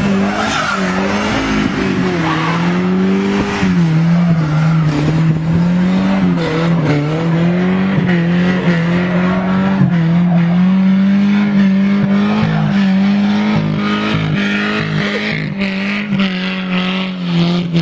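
Volkswagen New Beetle's engine held at high revs, its pitch wavering up and down without a break, while the driven wheels spin in the snow and throw it up.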